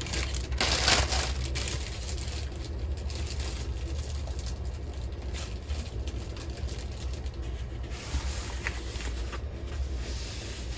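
Rustling and crinkling of a rolled diamond-painting canvas and its paper being handled and pulled out, loudest about a second in, with scattered handling noises after. A steady low hum sits underneath.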